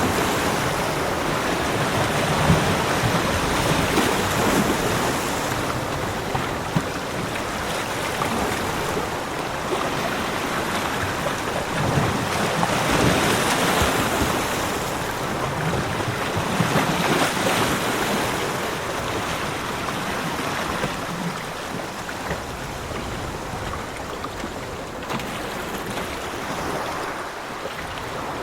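Ocean surf washing onto a beach, swelling roughly every four to five seconds as waves break.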